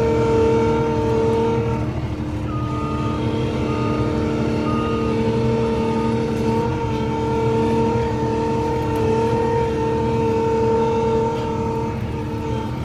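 Skid steer loader's engine running steadily under work, with a reversing alarm beeping a few times about two to five seconds in.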